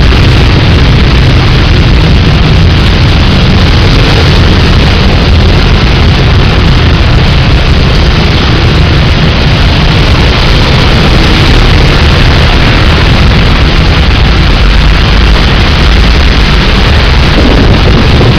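Heavy rain pouring down in a loud, steady roar with a deep rumble underneath, and cars and motorbikes driving past on the wet road.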